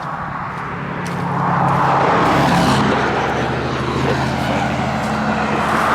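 Road vehicle passing close by: an engine hum and tyre noise swell about a second in and hold, with the engine's pitch shifting in a few steps.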